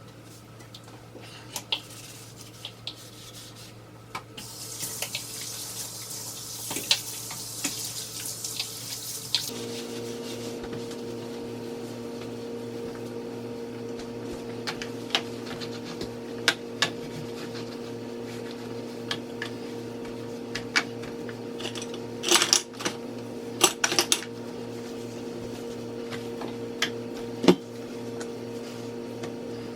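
Kitchen sounds: a tap runs for about five seconds, then a steady electric hum sets in, with dishes and utensils clinking on and off, loudest in a cluster of clatters after about twenty seconds.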